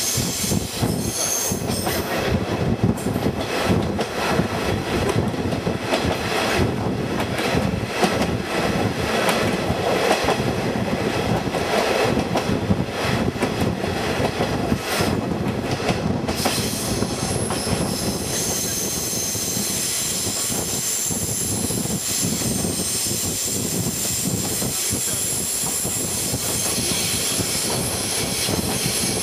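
KiHa 48 diesel railcar running along the track, heard from its open-sided trolley car: a steady rumble of wheels on rail with repeated clicks over the rail joints. A thin high wheel squeal joins in a little past halfway.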